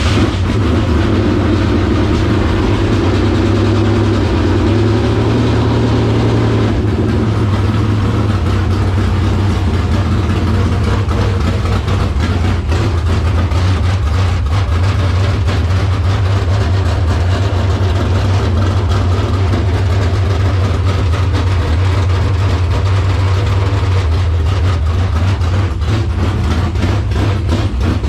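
Dirt late model race car's carbureted V8 racing engine idling steadily after being fired, on its first run after a fuel pump swap.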